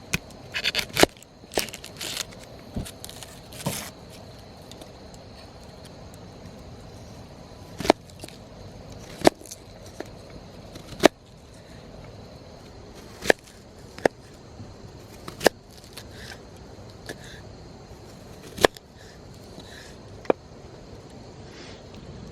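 Wood campfire crackling, with sharp irregular pops every second or two over a low steady hiss, and a quick cluster of pops and snaps in the first few seconds.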